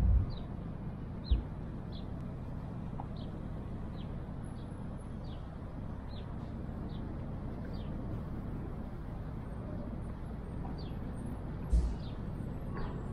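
Outdoor city ambience: a steady low rumble of distant traffic, with a small bird repeating a short, high, falling chirp about every half second. Two dull thumps stand out, one about a second in and one near the end.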